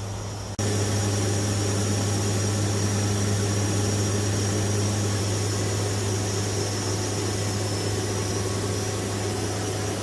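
Steady drone of a WC-130J Super Hercules's four Rolls-Royce AE2100 turboprop engines and six-blade propellers in flight, with a strong low propeller hum and a faint high whine. It jumps suddenly louder about half a second in.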